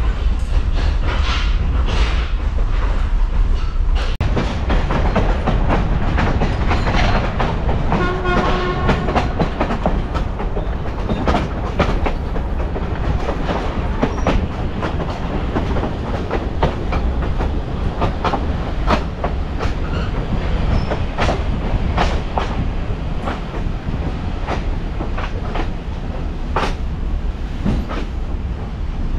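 Train rolling along the track: a steady low rumble with the wheels clacking over the rails, and a brief pitched tone about eight seconds in.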